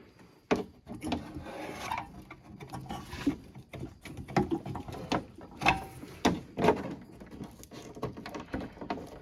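Irregular small clicks, knocks and rattles of hand work on a snowmobile while its headlight wires are being secured, with a few sharper knocks around the middle.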